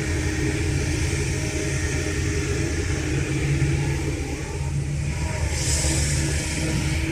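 Kobelco SK210LC excavator's Hino J05E-TG four-cylinder turbo diesel running steadily with a deep rumble. A brief hiss comes about five and a half seconds in and lasts about a second.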